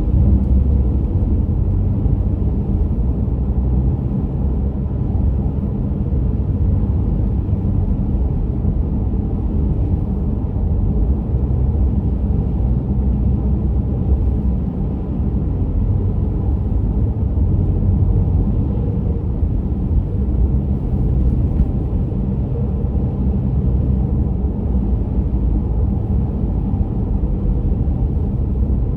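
A car driving at a steady pace: an even, low road rumble of tyres and engine with no sudden changes.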